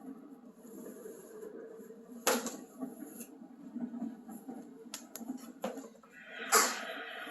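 A white noise sleep machine playing a steady, wavering low sound, with several sharp clicks from its buttons being pressed. A brighter hiss comes in near the end as the setting changes.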